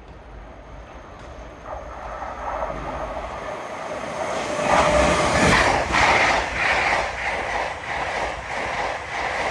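LNER Azuma electric express train approaching and passing at speed. It grows louder from about two seconds in and is loudest from about five seconds, with the wheels beating in a steady rhythm as the carriages go by.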